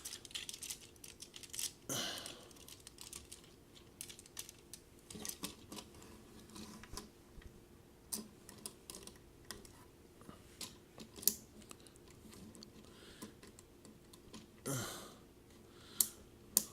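Irregular small plastic clicks and taps from a hard-plastic Transformers action figure being handled and tried against its display stand.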